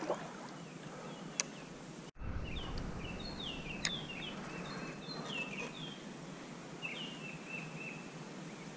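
Songbird singing: repeated short, down-slurred chirps in quick phrases, starting just after a brief dropout about two seconds in, over steady outdoor noise. Two sharp ticks, one before and one after the dropout.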